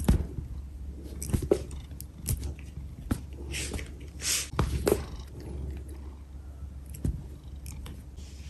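A pet cat moving about at close range: scattered light taps and a few short, scratchy rustles, with a steady low hum underneath.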